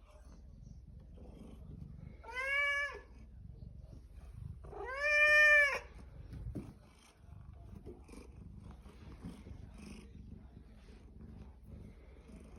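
Domestic cat meowing twice, two drawn-out calls that rise and fall in pitch, the second longer and louder, with a low steady purr underneath.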